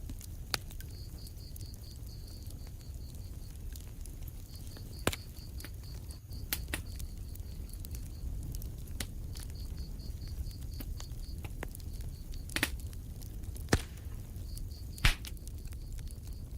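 Wood fire crackling in a fireplace: a steady low rumble of flames with scattered sharp pops and snaps, the loudest two near the end. A high, evenly pulsed chirping comes and goes in runs of a few seconds behind the fire.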